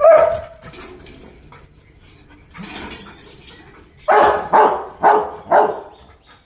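Rottweiler barking: one loud bark at the start, a weaker one near the middle, then four barks in quick succession about four seconds in.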